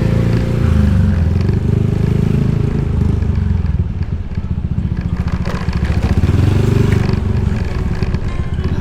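Motorcycle engine running while being ridden at low speed, the engine note easing off about three seconds in and picking up again around six seconds.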